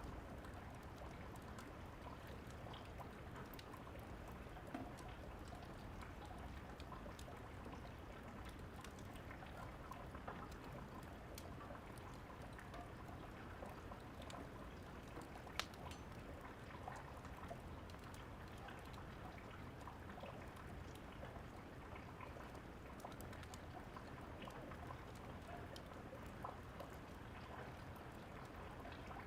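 Steady rain with scattered sharp crackles and pops of a wood fire. The sharpest pop comes about halfway through.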